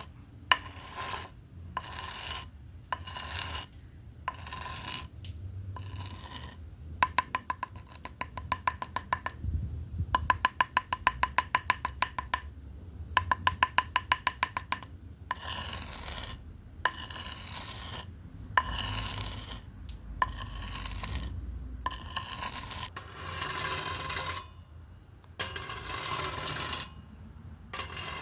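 Scratching and rubbing strokes on a wooden bat, made by hand for ASMR. Short rasps come about every 0.7 s, then three stretches of fast ticking a few seconds long follow each other, then longer rasping strokes about once a second.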